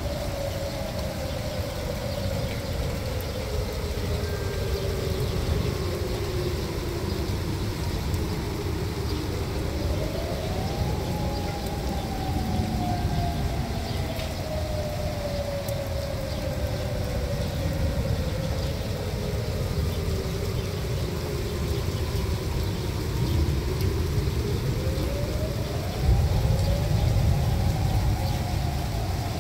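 Outdoor tornado warning siren wailing. Its pitch rises quickly, then slowly falls over about twelve seconds, and this happens twice. Underneath is a steady low rumble that grows louder near the end.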